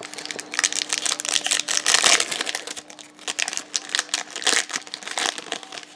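Plastic wrapper of a trading-card pack being torn open and crinkled by hand, a dense run of irregular crackles that comes in several surges.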